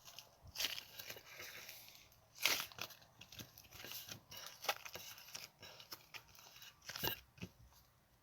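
Irregular crackling, crinkling and tearing sounds of a soft coloured material being mixed and pulled apart by hand, with sharper crackles about half a second, two and a half and seven seconds in.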